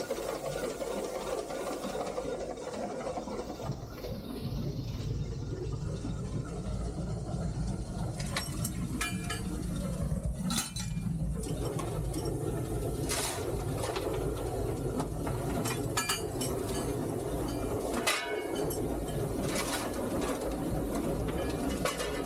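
A three-truck Shay geared steam locomotive running, heard from inside its cab. There is a steady low rumble, and from about eight seconds in come irregular metallic clinks and knocks.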